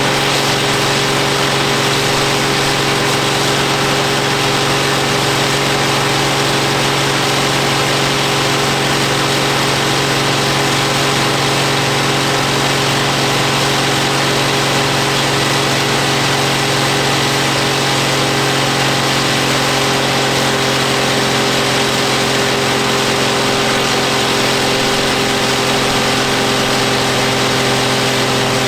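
Ford 7810 tractor's six-cylinder diesel engine running at a constant speed during a PTO dynamometer test, its pitch holding steady throughout.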